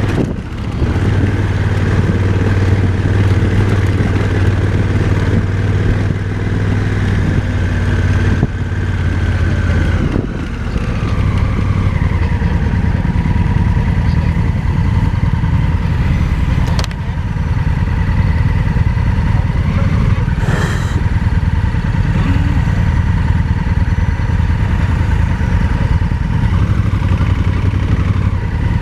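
Motorcycle engine running while the bike is ridden on a dirt road, a steady note with a brief dip just after the start and a change in engine note about ten seconds in.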